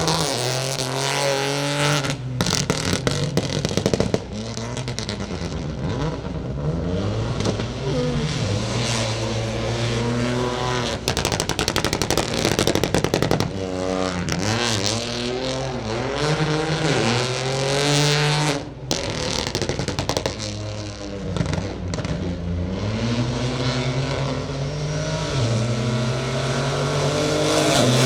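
Peugeot 208 Rally4's turbocharged three-cylinder engine driven flat out, its pitch climbing through the revs and falling back at each gear change, over and over, with a few brief sharp cutouts.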